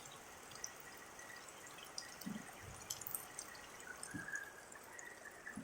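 Rain water dripping and falling in a steady, fairly quiet hiss, with scattered drops ticking and a few soft low thuds.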